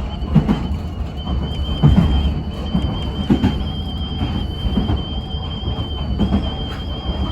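Electric train running along the line, heard from inside: a steady low rumble with irregular knocks from the wheels and track, and a thin steady high whine over the top.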